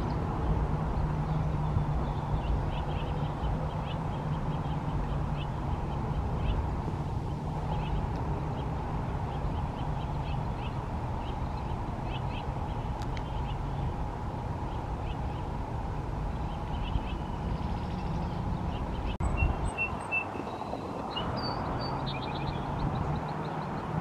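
Faint, short, high bird calls repeating over a steady low rumble and hum, with a few clearer high notes near the end and a single sharp click late on.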